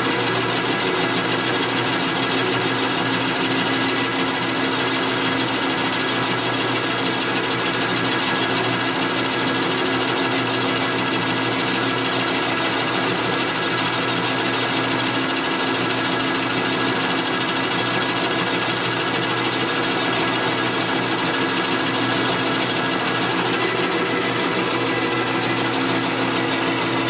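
Metal lathe running under power, a steady machine sound with several constant whining tones from its drive, while the tool takes a light 4-thou pass along a hot-rolled steel bar. It stops at the very end.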